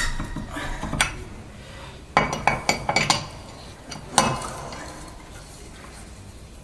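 Sharp metallic clinks of a wheel wrench and lug nuts as a wheel's nuts are snugged down in a star pattern: one at the start, another a second later, a quick cluster of clinks around two to three seconds in, and one more about four seconds in.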